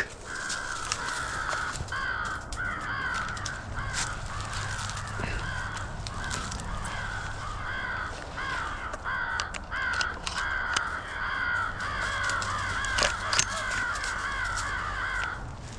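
Crow call blown by a hunter, giving a long, steady run of rapid, evenly repeated caws that mimic crows to lure them in. The calling stops abruptly near the end.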